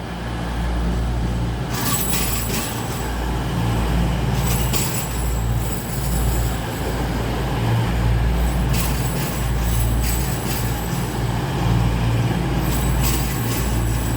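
Pair of Class 222 Meridian diesel multiple units arriving: a steady underfloor diesel engine hum with high-pitched squeals and clicks from the wheels and brakes coming and going several times.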